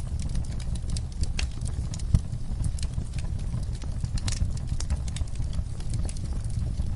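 Wood fire crackling: irregular sharp pops and snaps over a steady low rumble of burning, with one louder pop about two seconds in.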